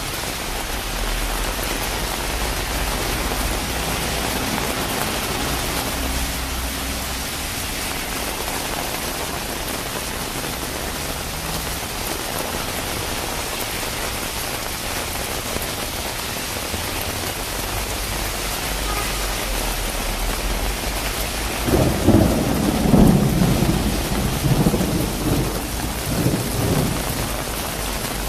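Heavy rain pouring steadily on the pavement and on an umbrella overhead. About three-quarters of the way through, a low rolling rumble of thunder swells for several seconds and dies back.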